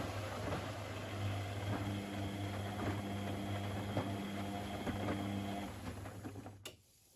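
Privileg Sensation 952 S top-loading washing machine running, its drum motor giving a steady hum with light knocks, then slowing down and stopping with a sharp click near the end.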